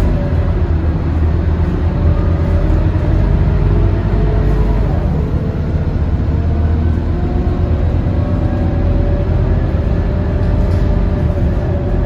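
Scania K230UB city bus under way: a steady low diesel engine drone, with a drivetrain whine whose pitch slowly rises and falls.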